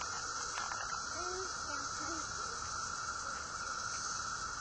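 Dense chorus of 17-year periodical cicadas: a steady, unbroken drone with a high hiss above it.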